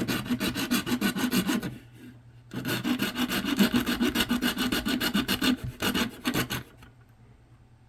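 Hacksaw cutting through the solid plastic housing of a Raymarine e7 chart plotter in quick, rasping strokes. There is a short pause about two seconds in, and the sawing stops near the end.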